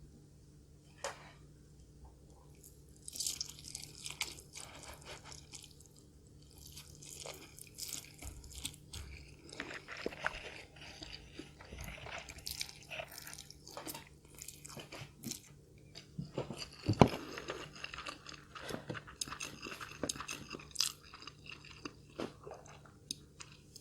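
A person eating close to the microphone: bites and chewing with many sharp crackles, after a quiet first few seconds, and one loud crack about seventeen seconds in.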